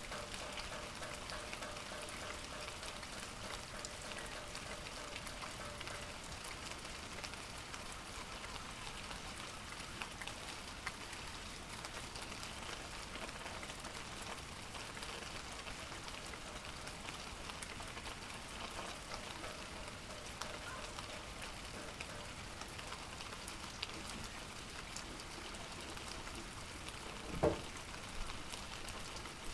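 Steady rain falling, with a single short knock near the end.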